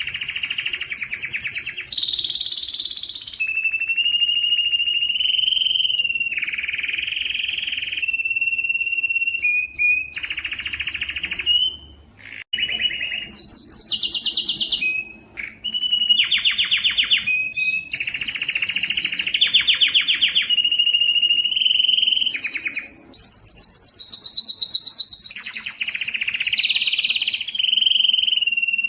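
Canary singing a long, continuous song of rolling phrases: fast buzzy trills alternate with steady whistled notes, with brief breaks about 12, 15 and 23 seconds in.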